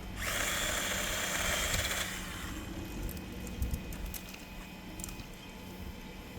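Electric chainsaw run in a short burst of about two seconds, then stopping, followed by a few light clicks and knocks.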